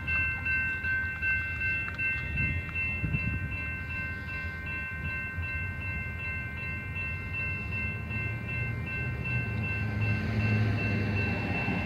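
Freight train rolling by, with several steady high-pitched metallic ringing tones over a low rumble. The rumble grows louder near the end, like a locomotive drawing closer.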